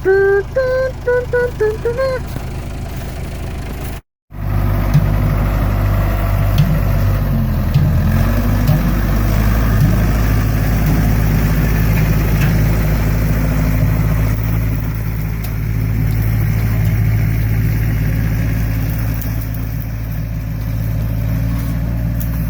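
A vehicle engine running steadily under way, a low, even hum that starts after a sudden cut about four seconds in. Its pitch dips and climbs again around seven to eight seconds in, as with a gear change.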